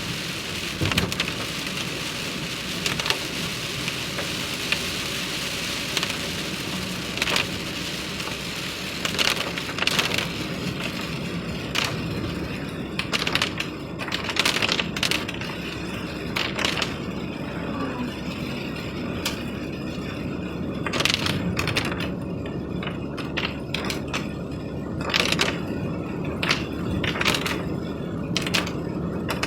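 Rain hiss with scattered sharp clicks and knocks; the hiss thins out after about twelve seconds while the clicks go on.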